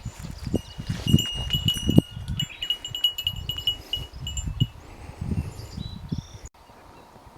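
A small bell jingling over and over to the rhythm of walking, with the dull thuds of footsteps underneath, as a hiker's bear bell does. The jingling fades out after about four and a half seconds, and everything stops abruptly about six and a half seconds in.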